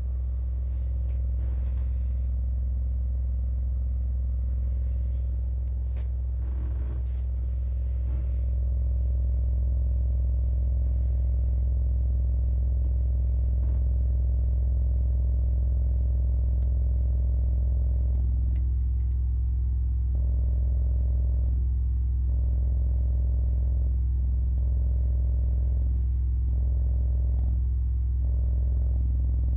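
Edifier R2850DB bookshelf speaker humming steadily and low from its bass-reflex port. This is a defect noise that the owner cures by removing the fabric mesh from the port.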